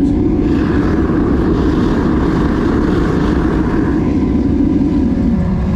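Burner of a homemade crucible furnace firing, a loud, steady rush of flame and blower noise that is heaviest in the low range.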